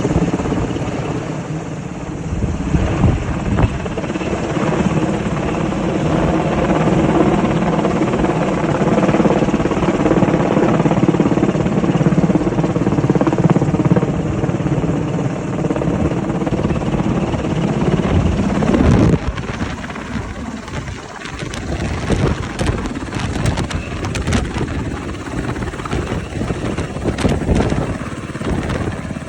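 UH-60A Black Hawk helicopter landing, its rotor and twin turboshaft engines loud and steady, then dropping suddenly in level about two-thirds of the way through, with gusty, buffeting noise after.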